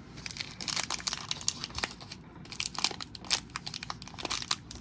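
Foil wrapper of a trading-card pack crinkling as it is handled: a steady run of irregular crackles.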